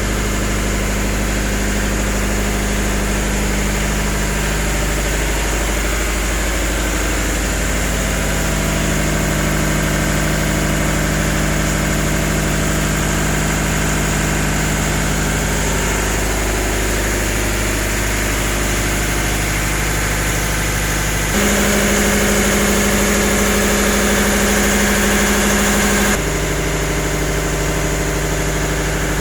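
Steady drone of a tugboat's engines and machinery heard on board: a low hum with several steady tones. The sound changes abruptly about 21 seconds in, growing a little louder, and changes again about 26 seconds in.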